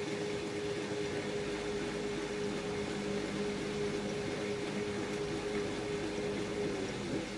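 LG F10A8HDS5 washing machine running its cotton cycle: a steady motor whine over the churn of the drum, with the pitch dipping briefly near the end as the drum changes speed.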